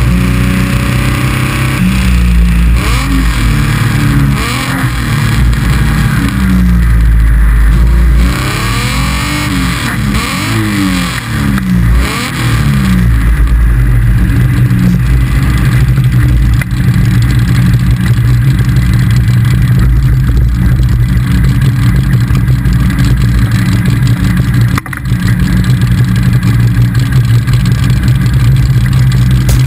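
Open-wheeled roadster's engine heard from the cockpit, rising and falling in pitch over and over as it revs up and eases off for about the first twelve seconds, then holding a steady note, with constant wind and road noise over the open car.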